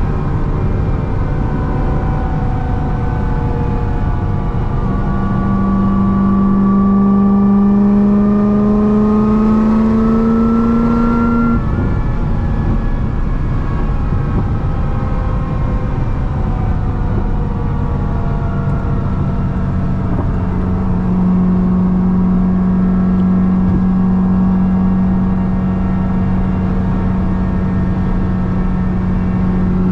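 Corvette C6 ZR1's supercharged 6.2 L V8 with a Kong 2650 supercharger, under way on the highway: the engine note and the supercharger whine rise steadily for several seconds. The pitch drops suddenly about twelve seconds in, as at a gear change, and later holds steady while cruising.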